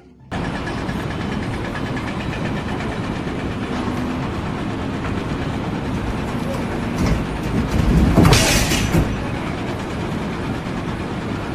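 Loud, steady machinery noise with a rattle, swelling louder for about a second around eight seconds in.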